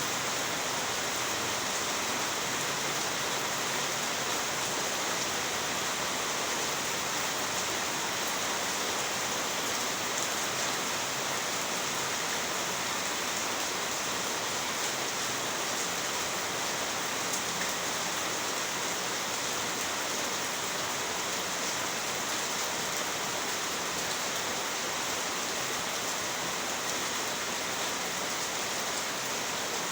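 Heavy rain falling, a steady, even hiss of a downpour with no let-up.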